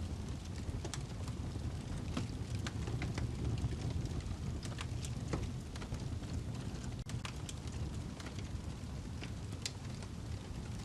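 Wood log burning in a fireplace, crackling with irregular sharp pops over a steady low rumble of the fire. The sound drops out for an instant about seven seconds in.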